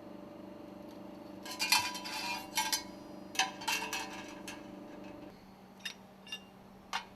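Metal stuffing box ring segments clinking as they are taken apart and stacked on a work table: a quick run of clinks, then single knocks spaced out. A steady low hum runs underneath and stops a little after five seconds in.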